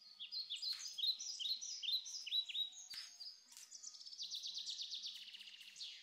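A small songbird singing: a series of quick, high, downward-sweeping chirps, then, from a little past halfway, a fast trill that slides down in pitch.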